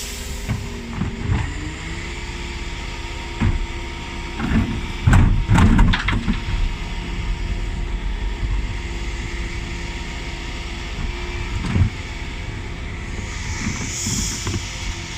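Dennis Elite 6 bin lorry's engine running steadily, its note stepping up about a second in as the bin lift works. A burst of heavy clattering and banging about five to six seconds in as the Terberg lift tips a wheelie bin, another single knock later, and a short air hiss near the end.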